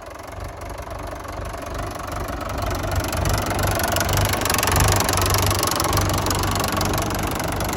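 Fordson Major tractor engine running, growing louder over the first three seconds as the tractor draws closer, then holding steady.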